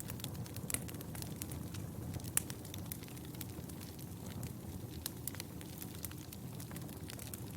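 Fire burning in a fireplace, crackling with irregular sharp pops over a steady low rumble of flame. The loudest pop comes about two and a half seconds in.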